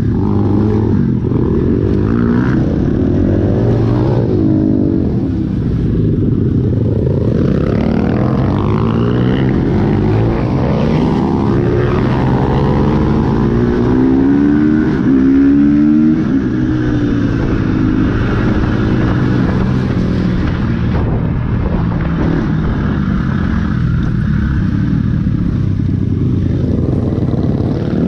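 Dirt bike engines on the road, revving up and falling back again and again as the bikes accelerate and shift, loudest around the middle.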